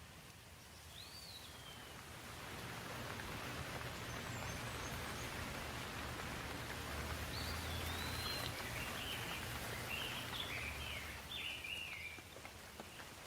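Rain falling steadily, swelling about two seconds in and easing near the end, with birds chirping over it: one call about a second in and a run of short chirps in the second half.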